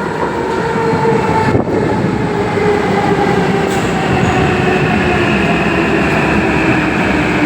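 Kawasaki C151 metro train's permanent-magnet traction motors whining over the running noise of the car, several tones rising slowly in pitch as the train gathers speed.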